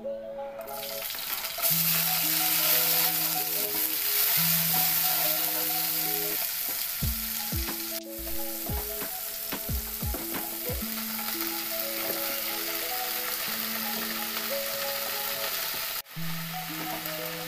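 Chopped garlic, shallots, chilies and tomato sizzling loudly in hot oil in a wok as they are sautéed until fragrant, with a few spatula strokes in the middle. The sizzle starts about a second in; background music with a simple melody plays over it.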